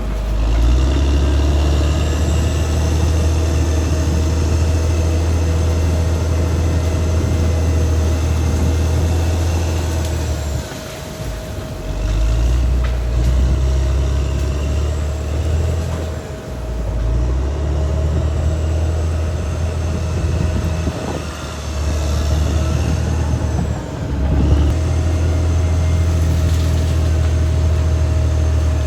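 Caterpillar D6R XL bulldozer's diesel engine running as the machine works, its heavy drone easing briefly about ten, sixteen and twenty-four seconds in, with a steady high whine and thin squeals above it.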